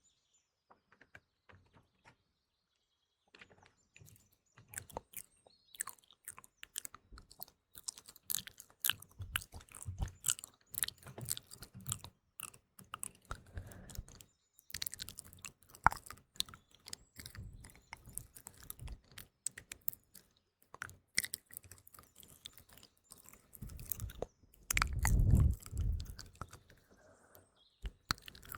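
Close-miked ASMR mouth sounds: rapid wet clicks and smacks, thick from about four seconds in, with one louder, lower mouth noise near the end. Faint morning birdsong sits underneath, mainly heard in the quiet opening seconds.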